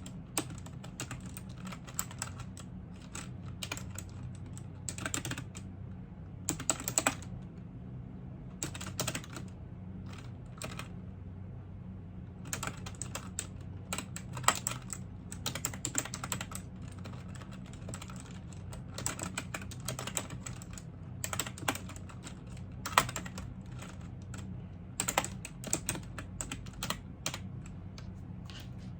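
Typing on a computer keyboard: runs of quick key clicks with short pauses between bursts, over a steady low hum.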